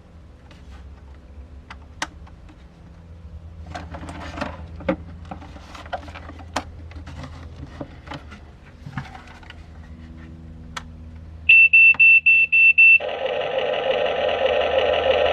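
Huina 1593 RC excavator's small electric motors whirring under scattered plastic clicks and knocks. About 11 seconds in, a rapid run of about five loud high beeps from its sound unit, followed by a loud, continuous sound with many tones.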